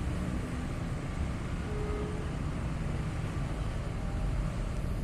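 Steady low rumble of vehicles moving near the bridge, with no sharp events.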